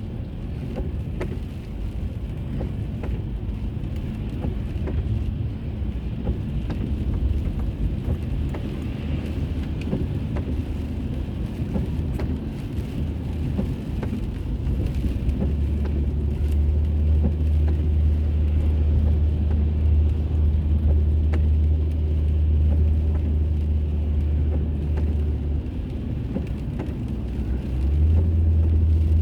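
A car driving on the road, heard from inside by a dashboard camera: a steady low rumble of tyres and engine. A deeper drone comes in about halfway, fades shortly before the end, then returns louder.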